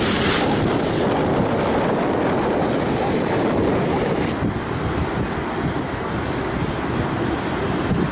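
Wind buffeting the microphone on the deck of a moving river boat, over the rush of water along the hull. A brighter hiss in the first half second eases into steadier rumbling noise.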